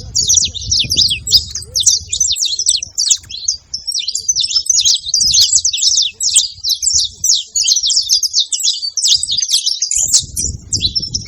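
Saffron finches singing: a dense, unbroken run of rapid, sharp, high chirping notes. A low rumble sits under the song for the first couple of seconds and again near the end.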